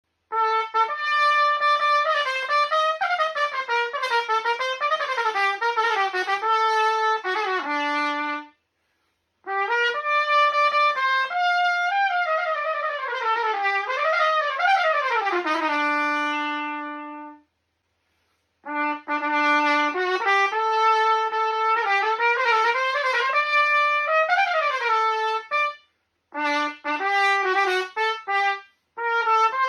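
Bach Stradivarius 37 B-flat trumpet played unaccompanied: melodic phrases with quick runs up and down, separated by short silent pauses. The first two phrases each end on a long held low note.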